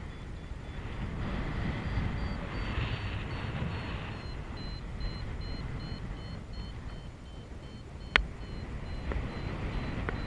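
Wind rushing over the microphone in flight, with a paragliding variometer beeping in rapid, even, high-pitched pulses. A sharp click comes about eight seconds in.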